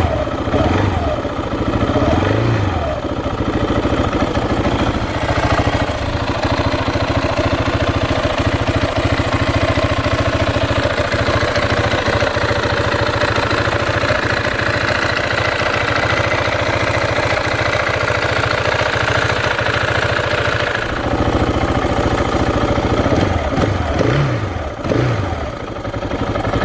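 2013 KTM 690's single-cylinder engine idling steadily, warming up so the oil is brought to temperature before it is drained.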